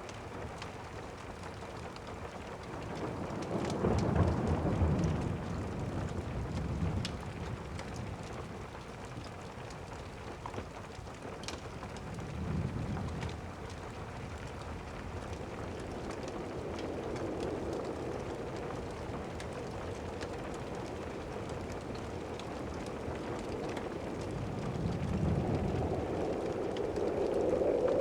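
Steady rain with low rolls of distant thunder, the strongest a few seconds in and others near the middle and near the end. A few faint crackles from a fireplace.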